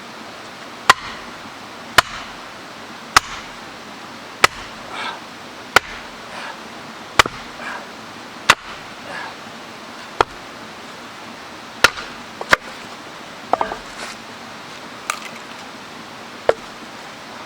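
Wood being chopped by hand: about a dozen sharp, evenly paced strikes, roughly one a second, some followed by a light clatter. A steady rush of stream water runs underneath.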